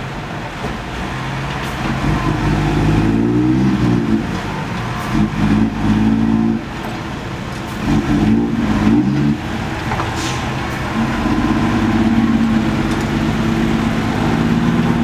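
Six-wheel dump truck's diesel engine revving up and falling back several times.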